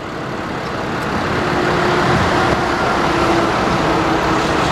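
Road and engine noise from a vehicle driving at highway speed, growing louder over the first couple of seconds, with a faint steady whine running through it.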